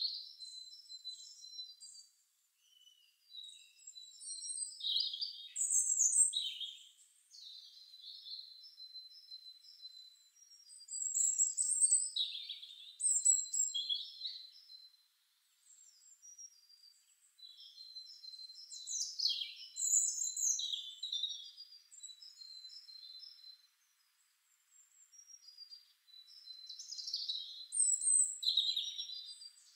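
Birds chirping and singing in short, high whistled phrases, coming in bursts with brief lulls.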